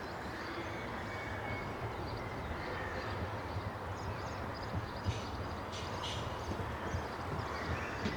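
A passenger train's steady low rumble, with a few light clicks about five to six seconds in.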